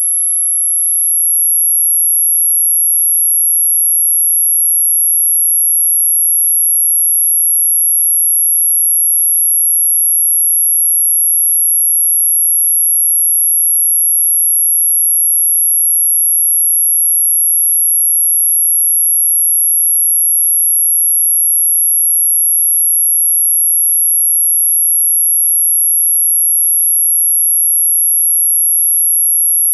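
A single very high-pitched steady electronic tone, held unbroken: an anti-mosquito repellent tone.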